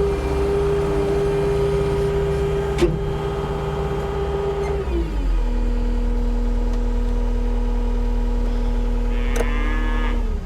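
New Holland L318 skid steer's diesel engine running steadily at high revs, then throttled down to a lower steady speed about five seconds in. There is a sharp knock about three seconds in.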